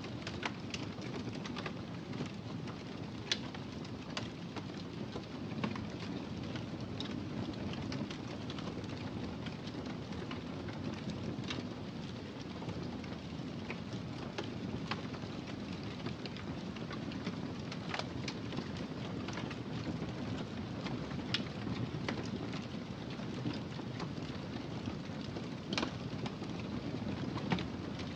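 Wood fire crackling in a fireplace: a steady low rush with sharp pops and snaps at irregular intervals.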